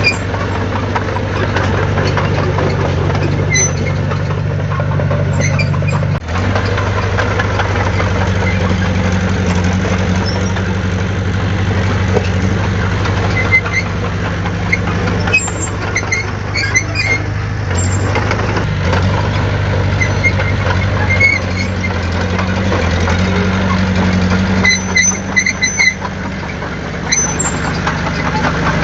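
Heavy construction-machine diesel engine running steadily at a low, even pitch, with short high squeaks and clinks scattered over it, most of them in the middle and near the end.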